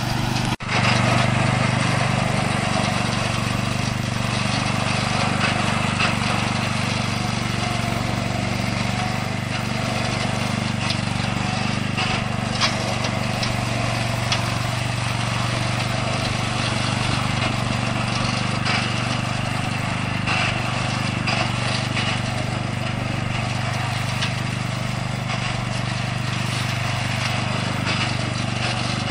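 The 13 hp Tosaka petrol engine of a remote-controlled robotic lawn mower running steadily under load while the mower cuts through tall grass and weeds. A few sharp ticks are heard along the way, and the sound dips for a moment about half a second in.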